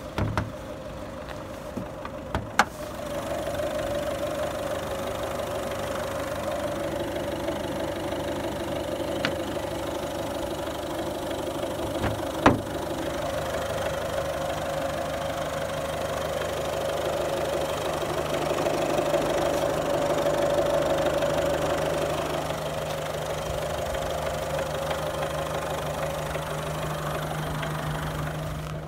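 Mazda 6's 2.0-litre RF7J four-cylinder turbodiesel idling steadily with diesel clatter. A few sharp knocks sound near the start and one about twelve seconds in.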